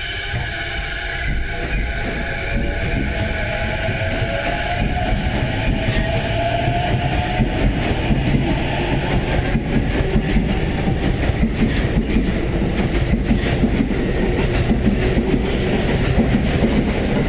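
Electric train pulling away from a station. Its traction motors give a whine that rises in pitch over the first several seconds. Wheel clatter and rhythmic clicks over the rail joints then grow louder as it gathers speed.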